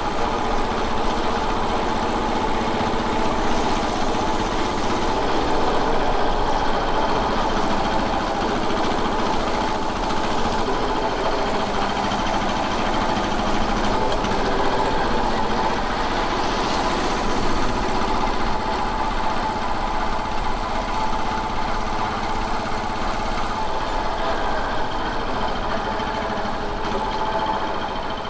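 Royal Enfield Bullet 500's single-cylinder four-stroke engine running steadily, its level holding even throughout.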